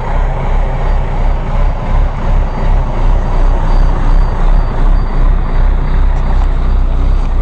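International DTA360 inline-six diesel in a 1993 Blue Bird bus idling with a steady, low, rhythmic chug just after a cold start. It is held at low revs because the oil is still thick from the cold.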